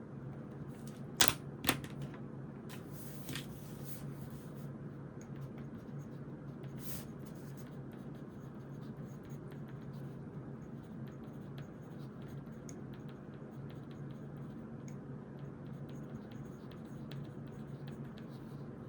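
Desk study sounds: two sharp clicks about a second in, then pen or pencil writing on notebook paper with faint scratching and small ticks over a steady low room hum.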